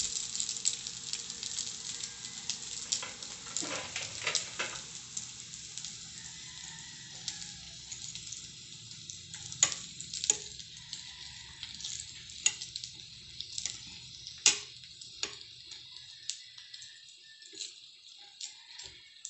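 Breaded chicken nuggets sizzling as they fry in oil in a frying pan, with sharp clicks and scrapes of a metal turner as it flips and pushes them around the pan.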